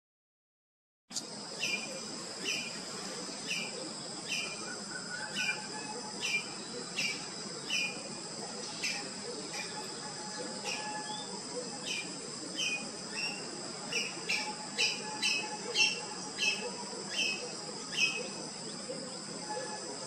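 A bird chirping over and over, short calls roughly every half second to a second, over a steady high-pitched hum, starting about a second in.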